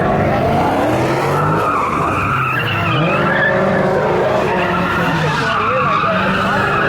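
Car engine revving up and down repeatedly, with the tyres squealing continuously as the car slides in a drift.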